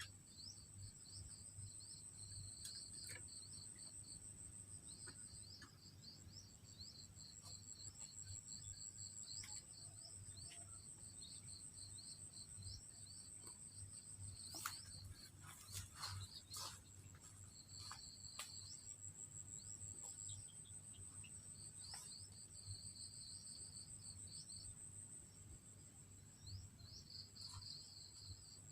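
Insects trilling: one steady high-pitched trill, with a second, lower pulsing chirp that comes and goes. A few faint clicks sound around the middle.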